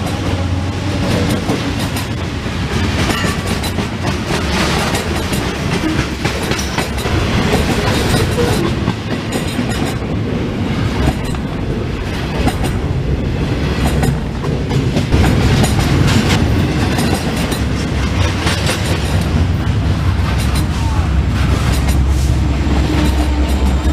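Freight train cars rolling past, steel wheels clicking and clattering over the rail joints in a continuous loud rumble. A low steady hum comes in near the end.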